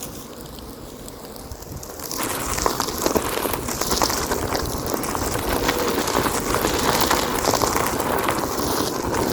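Onewheel electric board's tyre rolling over a gravel trail: a dense crackling crunch with wind on the microphone. It gets louder and rougher about two seconds in.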